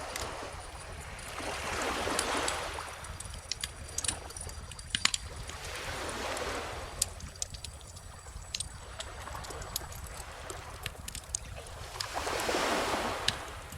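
Crackling bonfire with many sharp pops and snaps, over calm ocean waves that wash in three times as slow, soft swells. A low steady rumble runs underneath.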